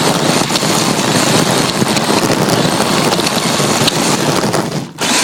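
Onboard sound of an electric RC drift car driving, picked up by a phone strapped to its bare chassis: a loud, even rush of tyre and ground noise with a faint high motor whine. It drops out suddenly for a moment near the end, then picks up again.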